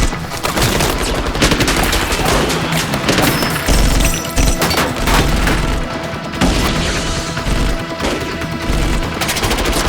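Heavy, rapid gunfire, many shots in quick succession like automatic weapons, over a loud action film score with deep low booms.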